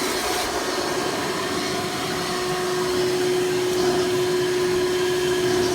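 Hoover Elite Supreme U5071-930 upright vacuum running steadily in tool mode, drawing air through its hose. Its 7.2-amp direct-air motor with a 20-blade fan gives a steady whine over rushing air.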